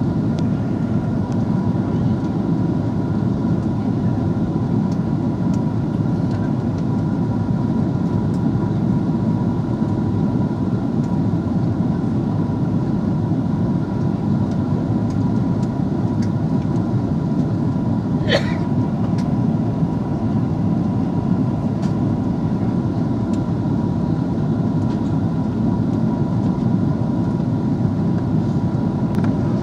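Steady cabin noise of an Airbus A330-300 descending to land: a constant low rumble of engines and airflow with a thin steady tone above it. One brief sharp sound about two-thirds of the way through.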